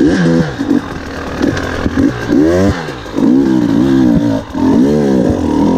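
2019 KTM 300 XC-W two-stroke dirt bike engine being ridden hard, its revs climbing and dropping several times in quick succession as the throttle is opened and closed.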